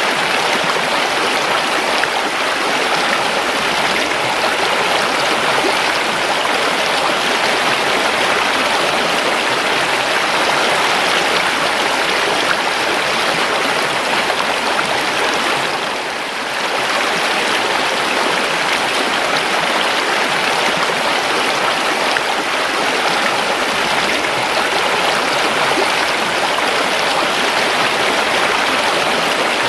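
Steady rushing and gurgling of a flowing river, with a brief dip in loudness about sixteen seconds in.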